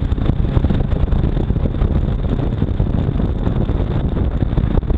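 Jet ski running at speed across the water, its engine and jet drive drone half-buried under wind buffeting the microphone and the rush of water.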